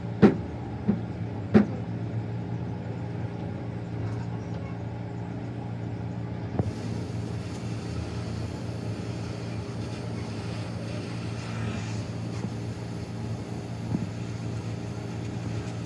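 A steady low mechanical hum, with sharp knocks three times in the first two seconds and once or twice more later.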